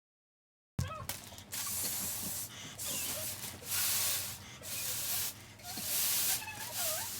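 Air hissing in repeated strokes, about one every two seconds, as from a hand balloon pump inflating a balloon. A dog whines faintly between the strokes, more toward the end.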